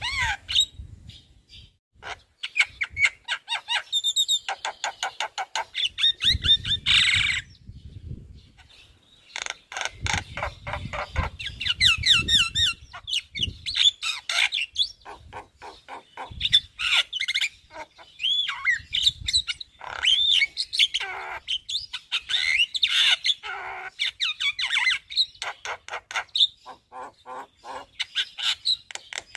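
Javan myna singing vigorously: rapid runs of short chattering notes mixed with whistled glides and harsh squawks, in phrases broken by brief pauses. A low rumble joins in twice.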